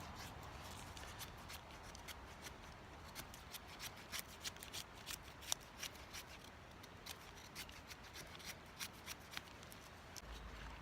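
Faint irregular small clicks and crackles, several a second at uneven spacing, over a low hiss.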